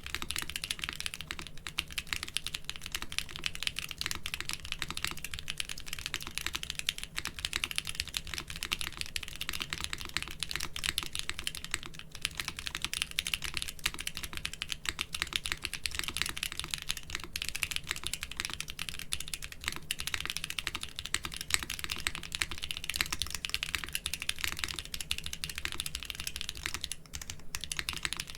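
Steady fast typing on a mechanical keyboard fitted with doubleshot keycaps, a dense run of keystroke clacks with a brief lull near the end.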